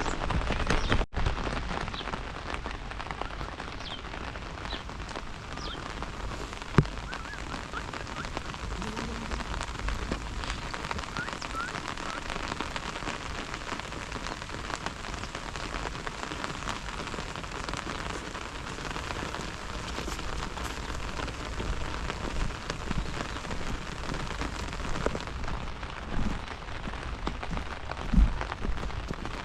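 Steady rain falling and pattering on surfaces, with a sharp knock about seven seconds in and a low thump near the end.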